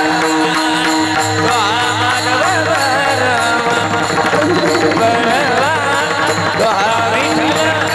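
Varkari kirtan devotional singing: voices singing a melismatic, wavering line over steady held notes, with mridang drumming.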